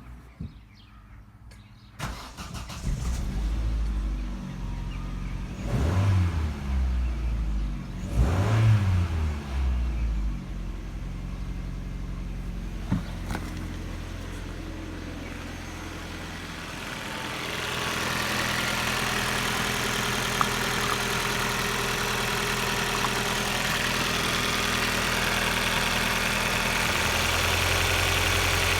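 Opel Astra H's 1.6-litre Z16XEP four-cylinder petrol engine starting about two seconds in, revved twice briefly, then settling into a steady idle. The idle grows a little louder and brighter after the halfway point.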